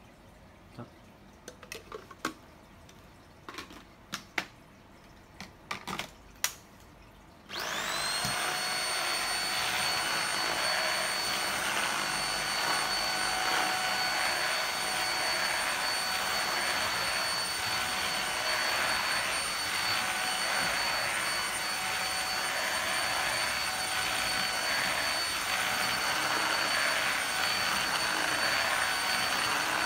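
A dozen or so sharp plastic clicks and knocks from handling a Skylar handheld UV vacuum cleaner, then about seven seconds in its motor switches on, whining up quickly to a steady high pitch and running on with an even rush of air.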